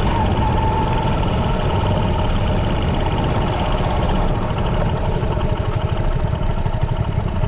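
Dirt bike being ridden, its engine running steadily under a dense, loud low rumble.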